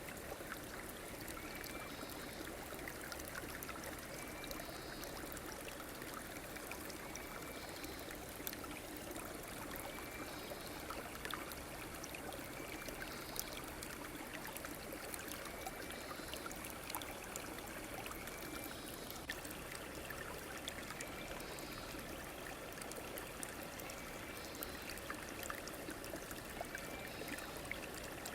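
A river or stream flowing steadily, with a faint, short high call repeating about every two seconds.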